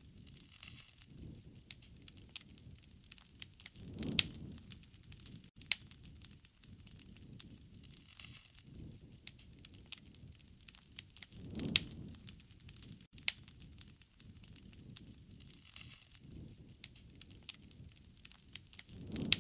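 Wood fire crackling, with frequent sharp pops and snaps and a soft low rush that swells about every four seconds.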